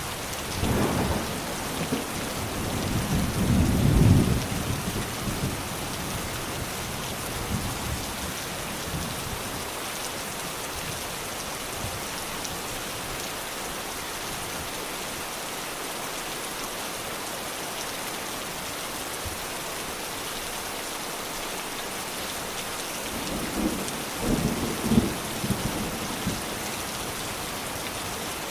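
Steady rain falling, with two rolls of thunder rumbling over it: one early on, peaking about four seconds in, and another near the end.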